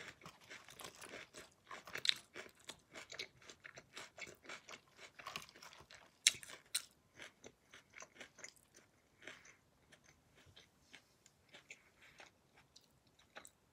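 Close-up chewing of a crisp lettuce salad: a quick run of crunches that thins out and grows fainter over the second half.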